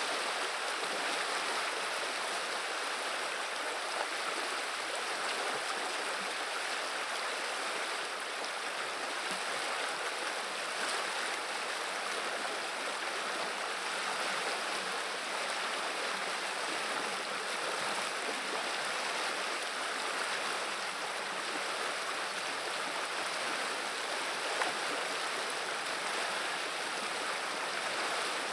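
Steady rushing and babbling of a flowing river.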